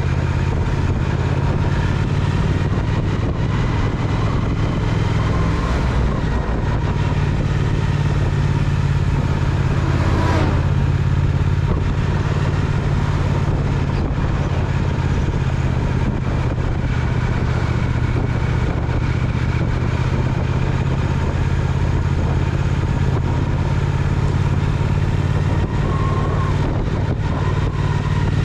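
Triumph Speed Twin parallel-twin engine running steadily under way, with a small change in engine pitch around six seconds in. A brief whoosh about ten seconds in.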